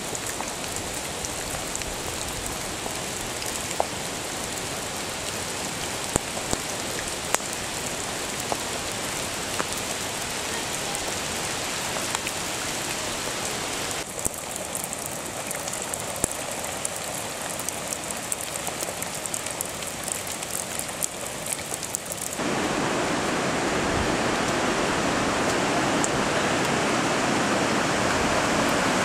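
Heavy rain falling, with many sharp drops ticking close to the microphone. About three-quarters of the way through it gives way suddenly to a louder, steady rush of running water.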